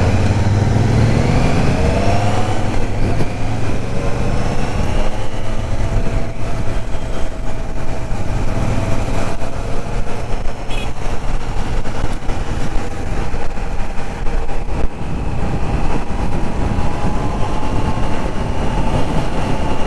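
Triumph Trident 660 motorcycle's three-cylinder engine pulling away, its pitch rising over the first few seconds, then running at a steady cruise, over a heavy rumble of wind on the microphone.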